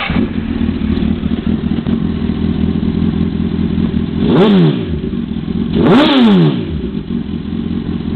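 2005 Honda CBR1000RR inline-four sport bike engine idling through a Micron aftermarket exhaust, with two quick throttle blips, about four and six seconds in, whose pitch jumps up and falls straight back. Really loud.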